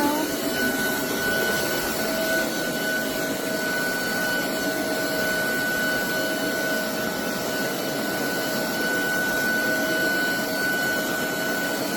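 Roborock Dyad Pro cordless wet-and-dry vacuum running steadily: a constant whine over an even rushing noise.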